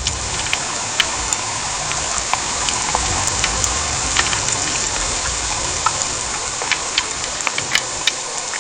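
Heavy rain falling steadily, a dense hiss with many sharp drops ticking close by.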